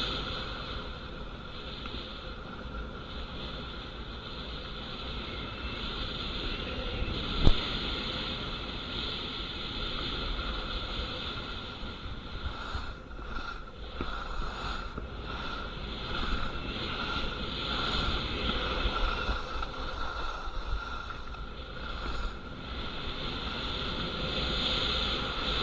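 Skis sliding and scraping over hard, icy snow in a steady rush that swells and chops unevenly, with wind on the microphone. A single sharp knock comes about seven seconds in.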